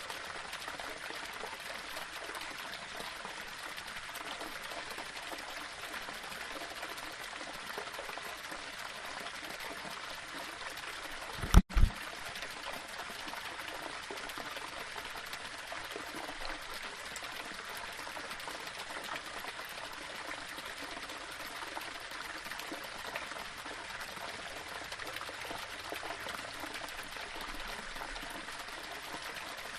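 Small waterfall running steadily over rocks, an even splashing rush of water. About twelve seconds in, the sound drops out for an instant and a brief, loud double low thump cuts through.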